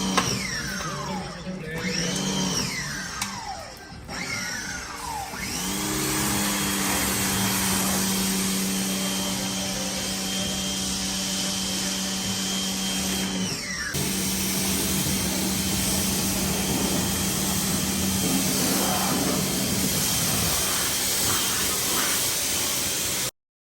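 An electric motor-driven tool spins up about five seconds in, runs steadily with a hum and a high whine for about eight seconds, then winds down. A steady hiss follows until the sound cuts off near the end.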